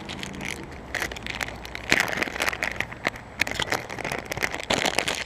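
Dense, irregular crackling and crinkling rustle, starting about a second in.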